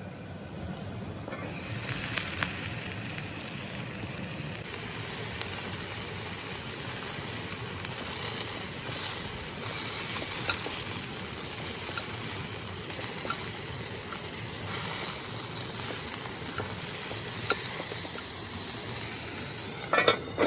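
Meat frying in a pan over a campfire: a steady sizzle that swells about a second and a half in, with small pops and crackles throughout and a few sharper clicks near the end.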